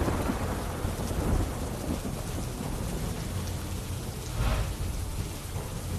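Steady rain falling, with a low rumble of thunder under it and a brief louder swell about three-quarters of the way through.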